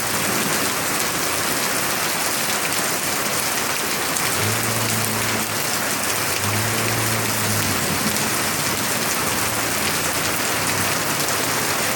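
Heavy rain falling steadily, a dense even hiss. A faint low hum comes and goes twice in the middle.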